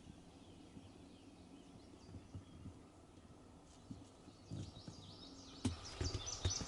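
Faint birdsong, short high chirps that grow busier near the end, with a few soft low thumps.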